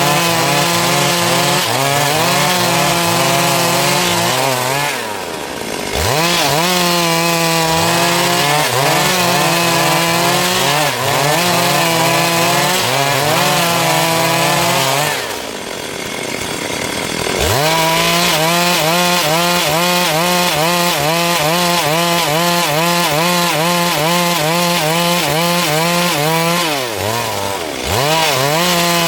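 Stihl MS382 two-stroke chainsaw cutting through a dry log at high revs, its pitch wavering as the chain works through the wood. Three times the revs drop away and climb back up, about five seconds in, around the middle, and near the end.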